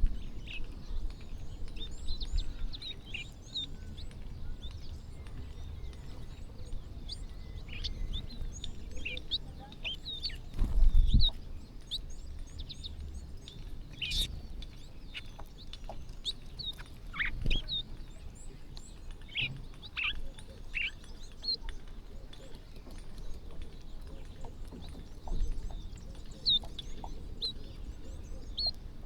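A flock of small birds chirping while feeding, many short high chirps overlapping without pause, over a low rumble. A loud low thump about 11 seconds in and a smaller one about 17 seconds in.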